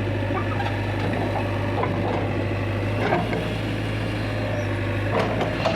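Heavy machine's diesel engine running steadily, with a few short knocks about three seconds in and near the end.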